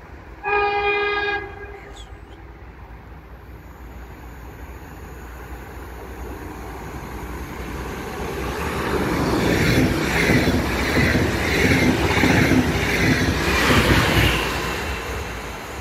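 An electric push-pull train led by an EU47 (Bombardier Traxx) locomotive with double-deck coaches gives one short horn blast about half a second in, then approaches and passes at speed. Its rumble builds and the wheels clatter over the rail joints about twice a second, loudest just before the end.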